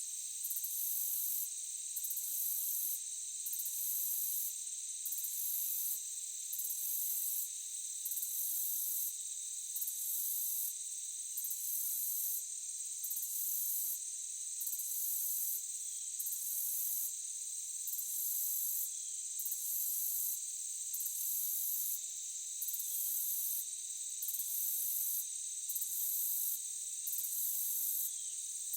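Insect chorus in a forest: steady high-pitched trilling, with a still higher buzz that pulses on and off evenly about every second and a half.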